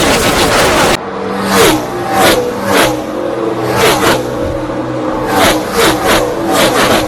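NASCAR Cup cars' V8 engines at racing speed: a dense mix of many engines for about a second, then a sudden change to cars passing one after another, each engine note dropping in pitch as the car goes by.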